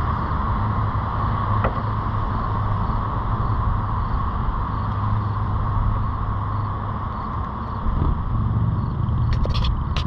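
Steady low rumble of a car's engine idling, heard inside the parked car, with a few short clicks near the end.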